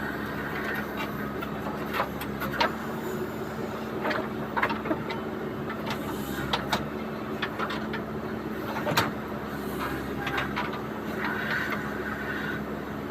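JCB 3DX backhoe loader's diesel engine running steadily, with sharp knocks scattered through, the loudest about nine seconds in.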